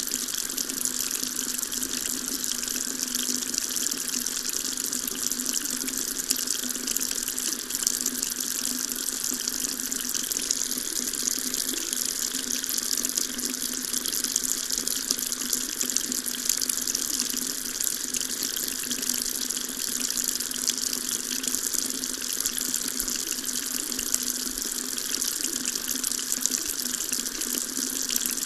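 Water tap running steadily, a continuous stream of water splashing with an even hiss.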